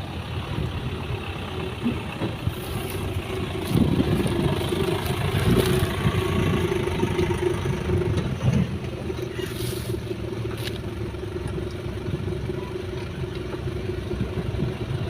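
Old excavator's diesel engine running under digging load, with a steady droning note, growing louder for several seconds in the middle as it works, then easing back. A few sharp clanks from the machine come through.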